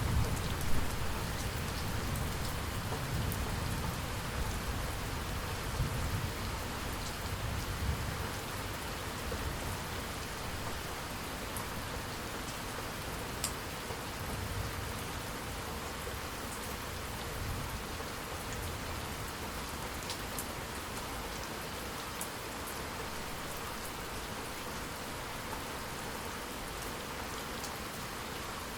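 Steady rain falling, with sharp drips ticking now and then. A low thunder rumble dies away over the first several seconds.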